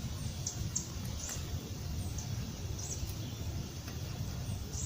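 Small bird chirping: short high chirps every half second to a second, irregularly spaced, over a steady low rumble.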